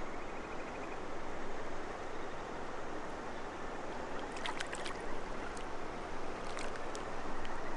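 River water flowing in a steady rush, with a few brief sharp ticks near the middle.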